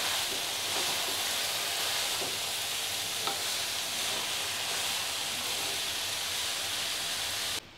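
Shredded purple cabbage, potatoes and masala sizzling in a kadai over a medium gas flame while being stirred with a spatula: a steady frying hiss with a few light scrapes. It cuts off suddenly near the end.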